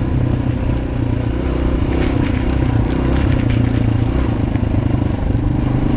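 Dirt bike engine running steadily while the bike is ridden along.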